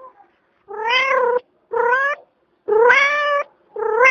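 A cat meowing four times in quick succession, each meow a clear, drawn-out call that rises at the start and then holds its pitch.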